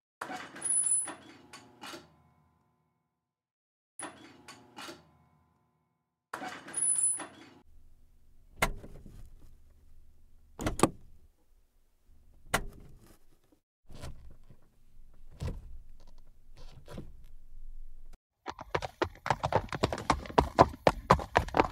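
Scattered short bursts of knocking and clattering, then near the end the rapid drumming of a galloping racehorse's hooves on turf.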